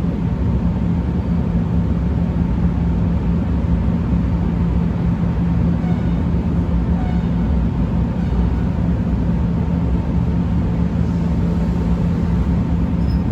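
Steady, loud rumble of a train on the line, with a constant low hum and no rise or fall in level.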